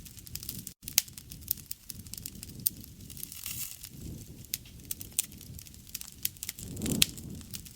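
Campfire burning: wood crackling with irregular sharp pops, over a low flame rustle that swells up now and then.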